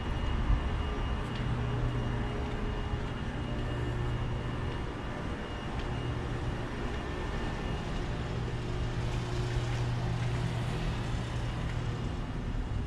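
Distant road traffic: a steady low engine hum, with a faint steady high whine over it.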